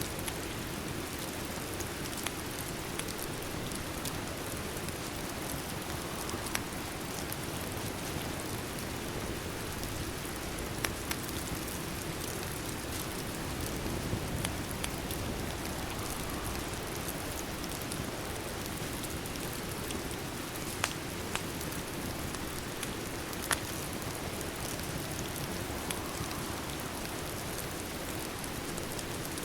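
Steady rain ambience with an even hiss, and a few sharp crackles of a fireplace scattered through it.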